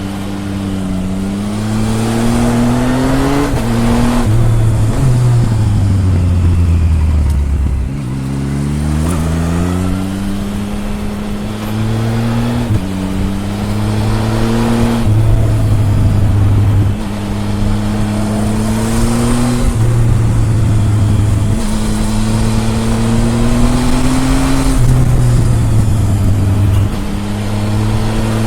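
Triumph Tiger 1050's three-cylinder engine, heard at the exhaust, pulling up through the rev range again and again, with the pitch dropping abruptly at each gear change. For a few seconds after about four seconds in, the revs fall steadily as the bike slows, then it picks up and climbs again.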